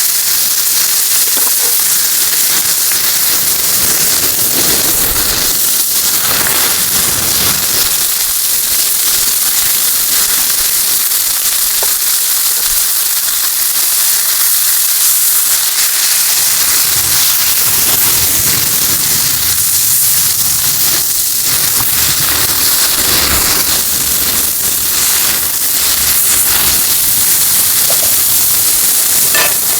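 Food sizzling in a frying pan over a campfire: a steady hiss with scattered small crackles and pops.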